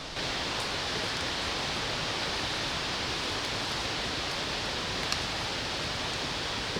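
Steady, even rushing hiss that starts abruptly, with a faint click about five seconds in.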